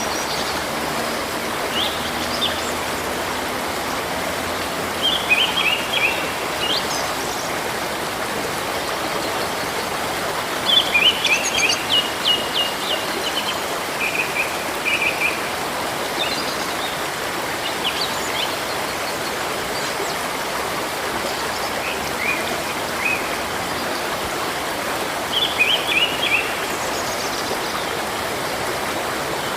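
Steady rushing of a river or stream, with small birds chirping in short bursts of quick high notes several times over it.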